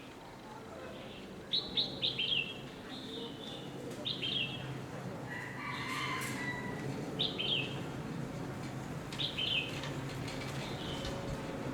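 A small bird chirping in short, quick, falling notes, in little clusters every second or two, over a steady low rumble.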